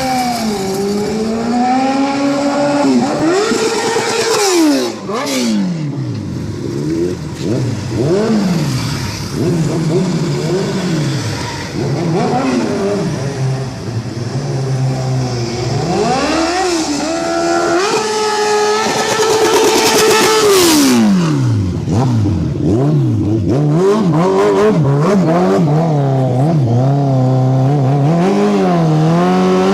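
Kawasaki Ninja motorcycle engine being revved over and over, the revs climbing and dropping every second or two. It is held high briefly about four seconds in and for a couple of seconds around twenty seconds in. Near the end it settles into a steadier, wavering rev.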